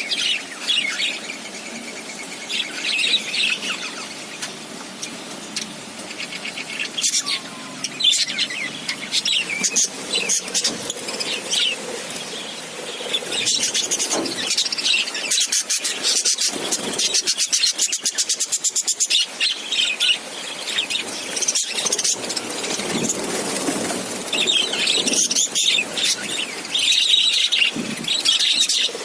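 A colony of budgerigars chirping and chattering, many high calls overlapping, with a stretch of fast ticking chatter in the middle.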